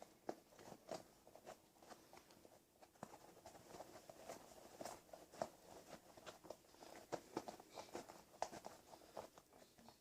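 Faint rubbing, squeaking and small clicks of hands working a foam insert back into a rubber RC crawler tire, irregular throughout.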